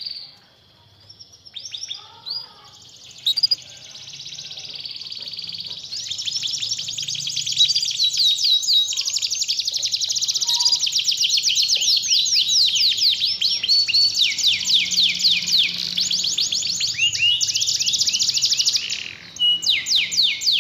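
Domestic canary singing a long song. It opens with scattered notes, runs into fast rolling trills, and ends with a few separate notes.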